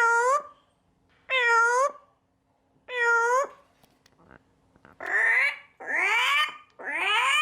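Pet parrot making loud meow-like calls: three drawn-out calls that dip and rise in pitch, then, after a pause of about a second and a half, three quicker calls that slide upward.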